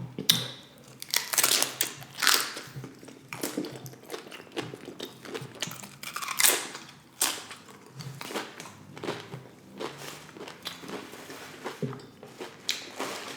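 Close-up crunching and chewing of tortilla chips loaded with toppings, with a series of irregular crisp crunches that are loudest in the first few seconds.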